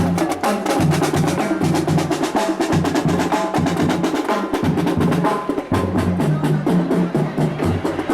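Drum band music: fast, dense drumming with sharp wood-block-like percussion strokes over a line of held low bass notes.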